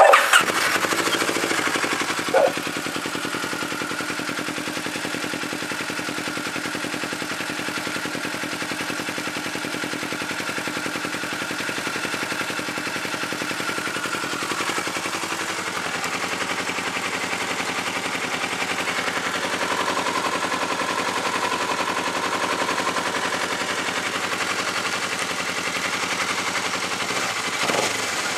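Kawasaki Ninja 650R parallel-twin engine through a loud aftermarket Arrow exhaust: a brief louder burst at the start, then a steady idle.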